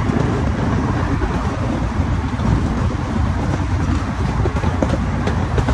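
Miniature park train's cars rolling along the track: a steady low rumble from the wheels on the rails, with a few faint ticks near the end.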